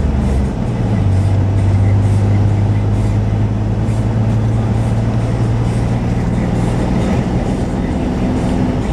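Chevy 4x4 pickup truck running, heard from the cab as a steady low drone that steps up in pitch about a second in. This is the intermittent grinding the owner ties to his truck's electrical fault, with the alternator acting up and the voltage sagging.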